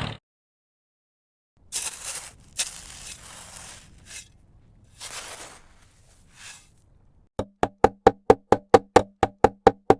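A few rough scraping or rustling noises, then from about seven seconds in a fast, even run of sharp knocks, about five a second.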